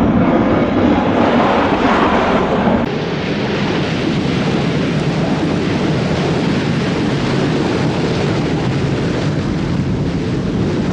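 Loud, steady storm noise of wind and rushing water, changing character about three seconds in.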